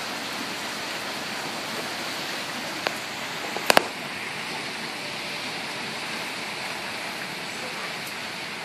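Heavy rain falling steadily, a constant hiss of rain pouring on roofs and ground. A sharp click a little before three seconds in and a quick double click near four seconds cut through it.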